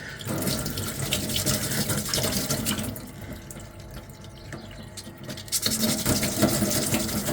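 Sandpaper scrubbing on a small 3D-printed armour piece, an uneven rasping noise that eases off for a couple of seconds midway and picks up again near the end.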